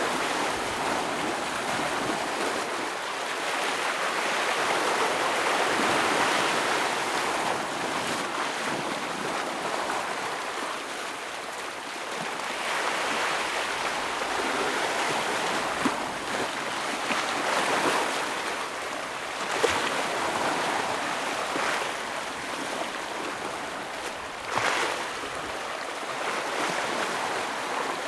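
Ocean waves washing in and breaking against rocks: a continuous rushing surf that swells and ebbs, with a few sharper splashes.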